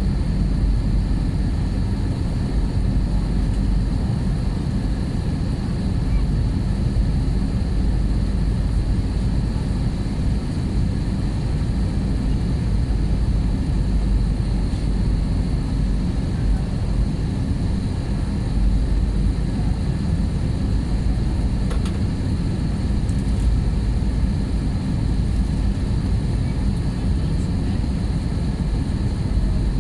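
Steady engine and airflow rumble of an Airbus A320-family airliner in flight, heard from inside the cabin, with a faint steady high whine over it.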